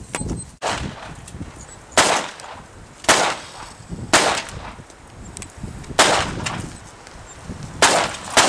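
A pistol firing a string of single shots, about six, spaced one to two seconds apart with the last two close together.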